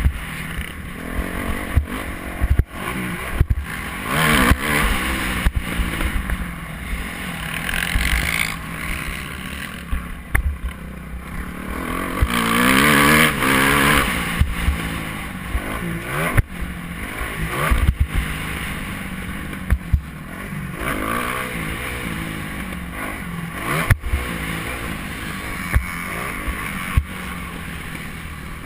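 Motocross bike engine revving up and falling back over and over, with a low rumble of wind and many sharp knocks and clatters.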